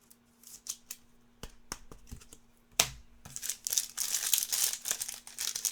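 Trading cards handled with a few light clicks, then from about three seconds in a card pack's wrapper crinkling and tearing as it is opened, over a faint steady hum.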